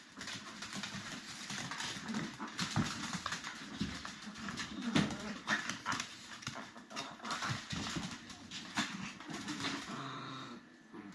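Chihuahua growling and barking in a rowdy fit, a busy run of short, sharp sounds that dies down near the end.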